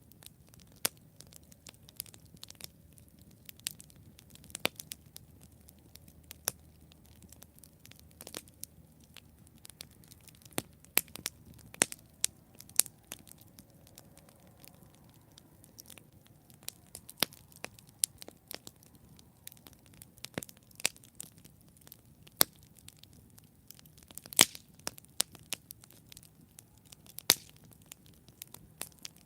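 Wood campfire burning, with irregular sharp crackles and pops, some much louder than others, over a faint low hiss of the flames.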